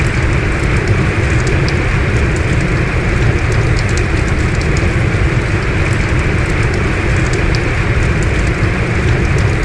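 Heavy rain falling steadily, a dense even rush with scattered sharp drop ticks through it.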